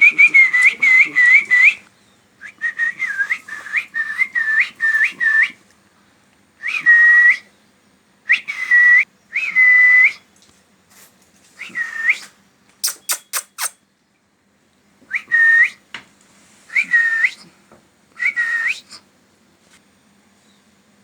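Baby parrot calling in bursts of short, hooked whistle-like chirps, some bursts long runs and others single calls, with pauses between. Near the middle comes a brief cluster of very high, thin tones.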